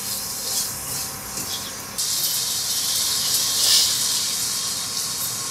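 Chicken pieces and spice masala sizzling and hissing as they fry in oil in a pan. The sizzle turns suddenly louder about two seconds in.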